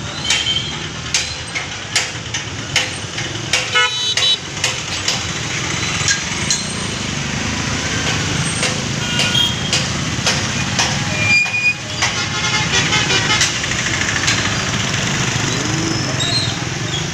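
Tractor engine running steadily, with many sharp clicks and rattles over it and a few short high toots.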